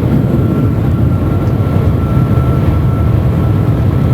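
Inside the cabin of the Shanghai maglev train at its top speed of about 431 km/h: a steady, loud rumble and rushing noise, with a faint high steady whine over it.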